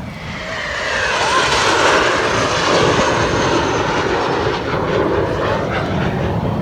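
Fixed-wing aircraft flying past. Its engine noise swells over the first couple of seconds, then holds loud with a sweeping, shifting whoosh.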